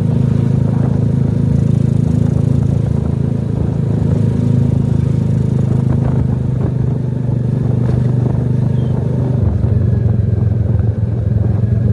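Small petrol engine running steadily at a constant speed, its note shifting slightly about nine and a half seconds in.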